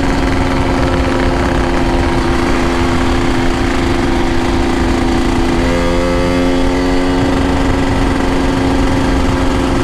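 Yamaha RX-King two-stroke motorcycle engine running steadily under way, with wind and road noise underneath. The engine note lifts slightly about halfway through.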